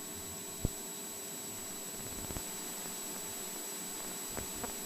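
Faint steady electronic hiss with a thin high tone from a light aircraft's intercom audio feed while nobody is talking, the cabin engine noise cut out by the intercom's gating. There is a short click about two-thirds of a second in.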